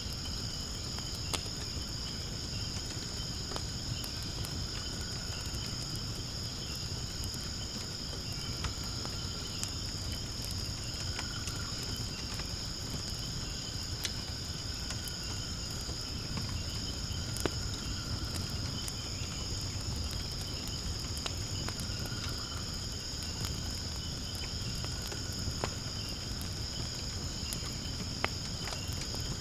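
Steady high-pitched chorus of insects, with scattered sharp crackles from firewood burning in a fire pit over a low rumble.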